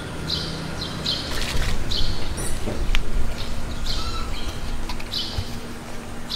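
A bird calling over and over, one short chirp about once a second. A low rumble swells through the middle, with a sharp knock about three seconds in.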